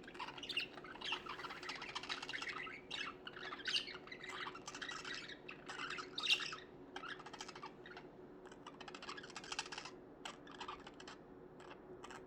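Budgerigars chirping and chattering, a dense run of quick, high warbling calls and squawks that thins out toward the end.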